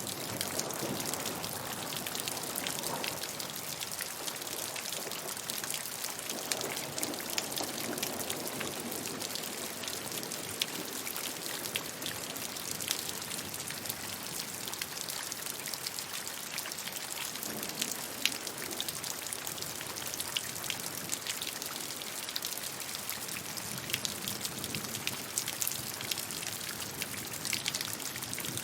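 Steady rain falling, with a dense hiss and many individual drops pattering and ticking on a surface.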